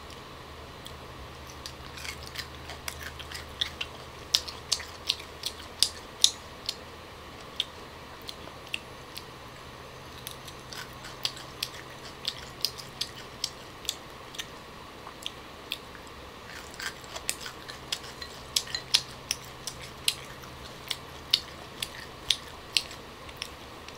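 Young green tamarind pods being bitten and chewed, a run of sharp, irregular crunches that come thickest in the first few seconds and again near the end.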